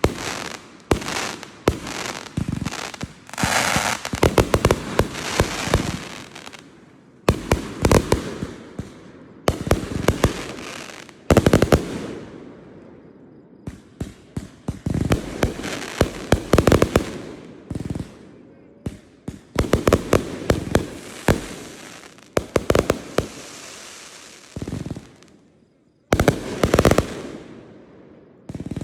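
Fireworks going off in volleys of rapid sharp bangs and crackles, each cluster fading away in an echoing tail, with a brief lull before a last burst near the end.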